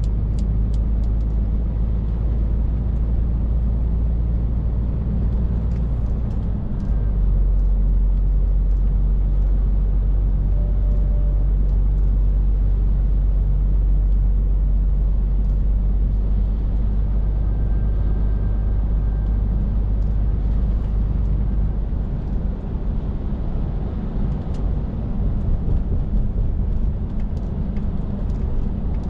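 Scania R450 truck's 13-litre six-cylinder diesel running under way: a steady low drone with road rumble. Its low note breaks briefly about seven seconds in, and it gets rougher in the second half.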